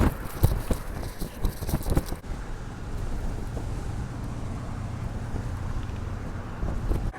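Wind gusts buffeting the microphone, then a steady low rumble of wind and road traffic.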